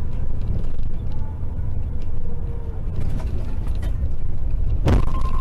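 Steady low rumble of a car on the road, heard from inside the vehicle. There is a single sharp knock about five seconds in.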